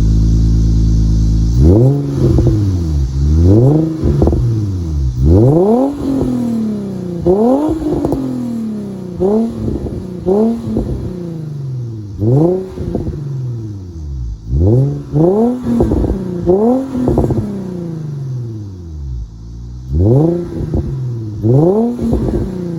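Infiniti G35 coupe's V6 engine being free-revved through its exhaust: repeated quick blips, sometimes two close together, each rising sharply in pitch and then falling back toward idle.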